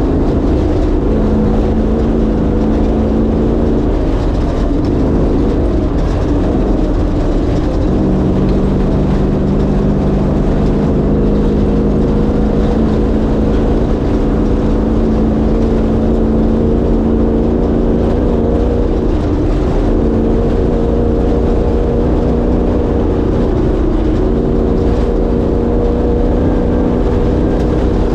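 1967 Ford Bronco's 363 cubic-inch stroker V8 running under way, its note holding steady and then shifting pitch a couple of times as the speed changes. It sits over a heavy low rumble.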